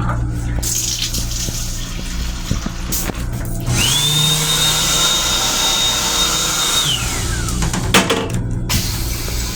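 Motorised air rush from the M7 railcar restroom's equipment: a loud rushing of air for several seconds, with a steady high whine that joins in partway through and winds down in pitch near the end before the rush cuts off, over the train's low running hum.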